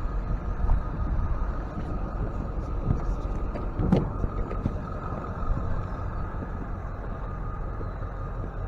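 Truck engine idling steadily, with a few light clicks and a brief knock about four seconds in.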